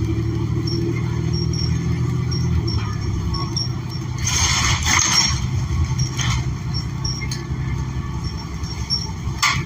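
Inside a 2014 New Flyer XN40 bus under way: its Cummins Westport L9N natural-gas engine and Allison B400R transmission run as a steady low drone. There is a short hiss about four seconds in, a fainter one about a second later, and a sharp click near the end.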